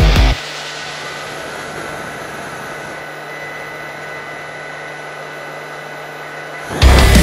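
Steady whirring of small electric motors with a low even hum, between two stretches of loud rock music.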